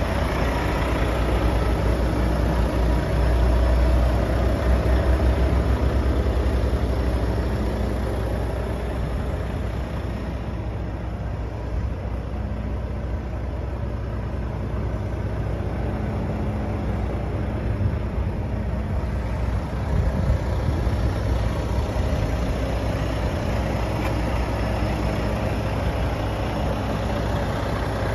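Volvo FH 540 truck's 13-litre six-cylinder diesel engine idling, its sound swelling and easing a little now and then.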